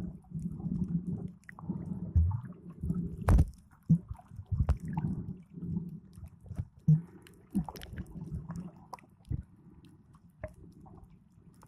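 Muffled, irregular water sloshing and gurgling picked up by a camera held underwater while snorkeling, with scattered sharp knocks and clicks.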